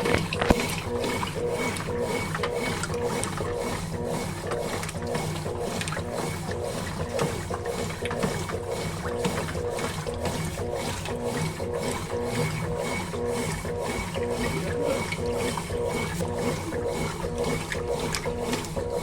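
Consul Facilite 11 kg top-loading washing machine agitating the wash load in its short soak stage: a steady, rhythmic mechanical churning of about three strokes a second over a pulsing motor hum.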